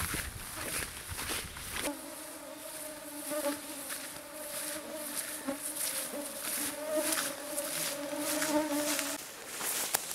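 A flying insect buzzing close by, a steady, slightly wavering hum that starts about two seconds in and stops about a second before the end.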